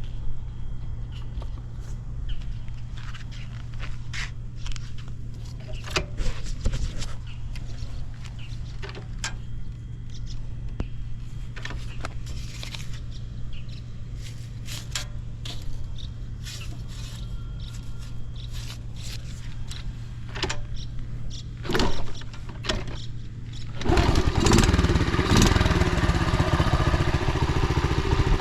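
Honda Dax 70's small single-cylinder four-stroke engine running steadily at idle, with scattered clicks and knocks over it, then revving up much louder near the end. It runs without abnormal noises.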